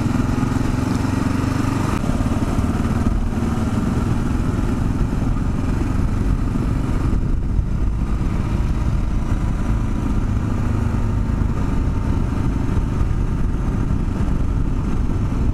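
Kawasaki KLR 650's single-cylinder engine running steadily while the bike is ridden.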